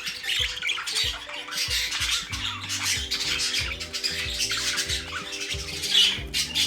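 English budgerigars chattering and squawking continuously, with background music underneath.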